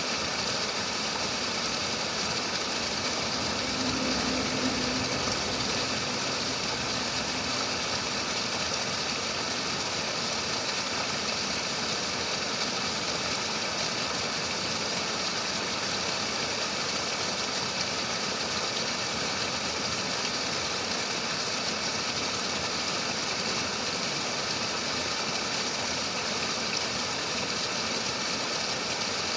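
Running water making a steady, even rush of noise.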